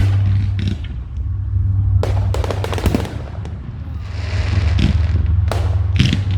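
Fireworks going off: a series of sharp bangs, with a spell of crackling about four seconds in, over a steady low rumble.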